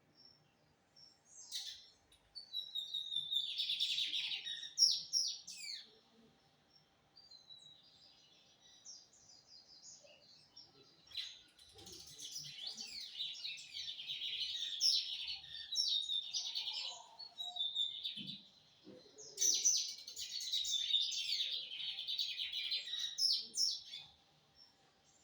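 Lined seedeater (bigodinho) singing: three long runs of fast, high twittering song with short pauses between, plus a fainter stretch of song in the first gap.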